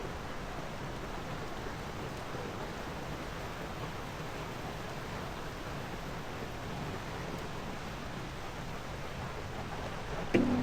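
Steady rush of flowing water from the falls and creek, an even noise with no rhythm. A brief knock comes near the end.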